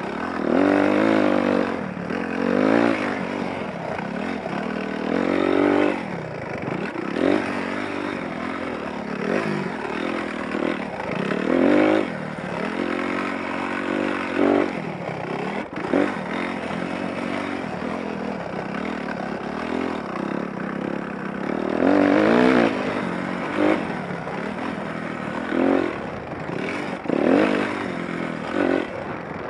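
Dirt bike engine being ridden on a motocross track, revving up and down over and over: the pitch climbs with each burst of throttle and drops off between, with the loudest surges about a second in, near the middle and near the end.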